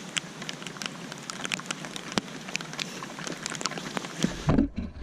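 Rain falling steadily, with many sharp close drop hits over a steady hiss; the rain is getting heavier. About four seconds in, the drop hits give way to a low rumble.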